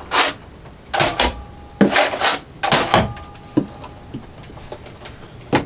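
A string of short plastic clacks and clicks from handling a Nerf Mega DoubleBreach pump-action toy blaster, about ten sharp knocks at uneven intervals.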